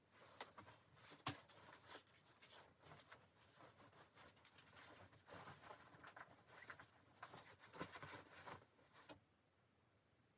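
Faint handling sounds: rustling with small clicks and taps, one sharper click about a second in, stopping a second before the end.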